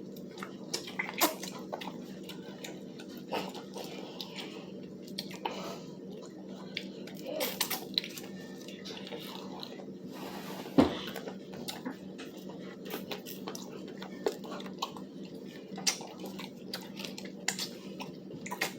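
Close-up eating sounds of crispy fried chicken being chewed, with scattered light clicks of tableware and one sharper knock about eleven seconds in, over a steady low hum.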